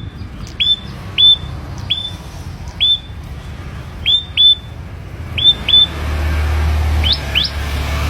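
Pet prenjak kepala merah, a small Indonesian songbird, calling over and over with short, loud, rising whistled notes about once or twice a second, some in quick pairs, changing to steeper upward-sweeping notes near the end. A low steady hum sets in about six seconds in.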